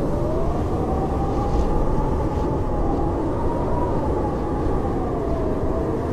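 Blizzard wind howling steadily, a deep rushing noise with a whistling tone that slowly rises and falls.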